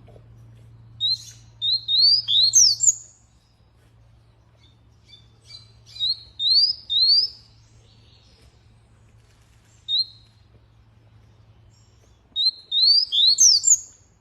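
Canary singing in short phrases of quick, rising, high whistled notes, in four bursts with pauses between them.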